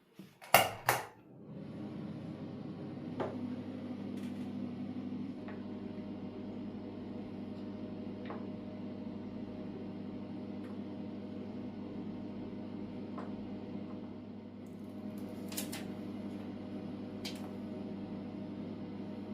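Two sharp clicks, then a kitchen appliance starts up and hums steadily, with a few light clinks and ticks over the hum.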